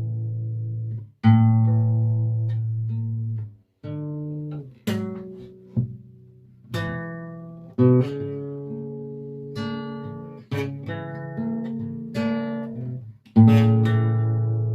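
Guitar music without singing: plucked notes and chords, each struck and left to ring and fade, over deep bass notes.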